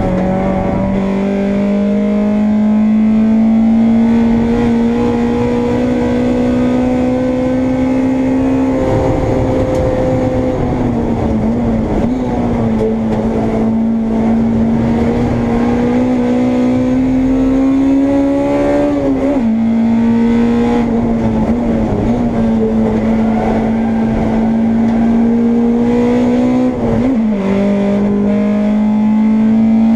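Honda Integra race car's engine heard onboard under hard running, its note climbing slowly through long pulls and dipping sharply three times as the driver shifts or lifts.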